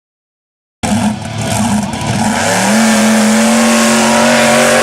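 Monster truck engine running hard under acceleration, its pitch climbing and then held at high revs for about two seconds. The sound cuts in abruptly about a second in.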